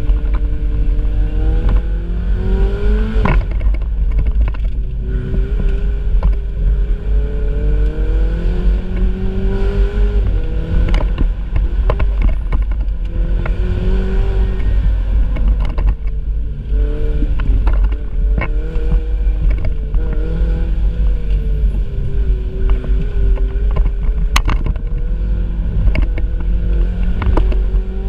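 Ferrari 488 Spider's twin-turbo V8 running on the move, its pitch climbing and falling with the throttle, over a heavy low rumble. A few sharp clicks, one about three seconds in where the pitch drops suddenly.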